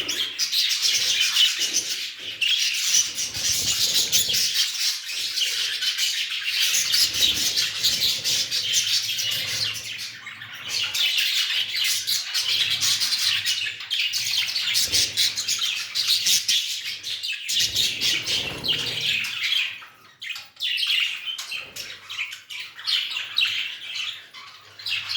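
Several king (exhibition) budgerigars chattering and chirping in a continuous warbling stream, with a brief lull about twenty seconds in.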